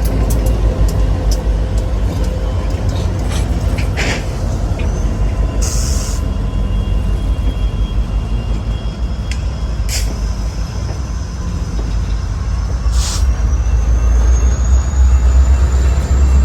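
Low, steady rumble of a heavy engine, growing louder near the end, with a few sharp clicks and knocks along the way and a faint high whine rising slowly in the last few seconds.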